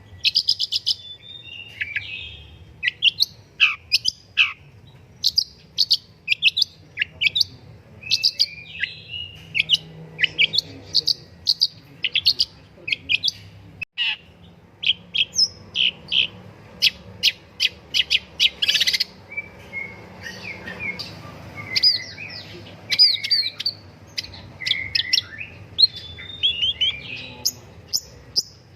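Long-tailed shrike (pentet) singing a rapid, varied song of short chattering notes and quick stuttered runs, phrase after phrase with short pauses between.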